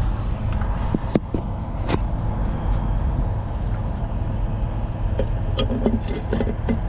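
A steady, low engine rumble runs underneath, with sharp clicks about one and two seconds in and a flurry of short metal knocks and clinks near the end, from hand work on the truck's rear suspension.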